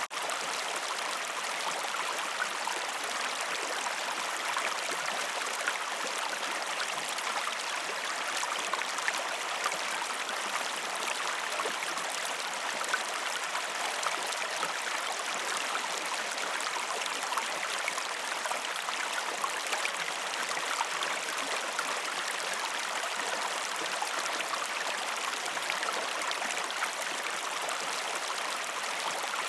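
Waterfall water rushing and splashing steadily, an even hiss with no change except a split-second dip right at the start.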